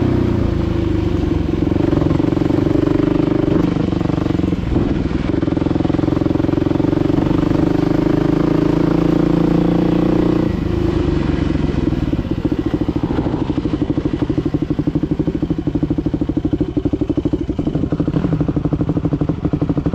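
Dirt bike engine running at steady revs, then dropping about halfway through to a low, evenly pulsing idle.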